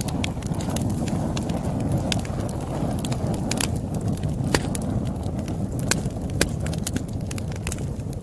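Wood fire burning with a steady low roar and irregular sharp crackles and pops.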